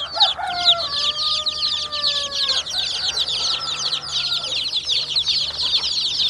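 Chickens: a steady chorus of rapid, high peeping runs throughout. Over it comes a drawn-out, slightly falling call of about two seconds just after the start, and a shorter call about three and a half seconds in.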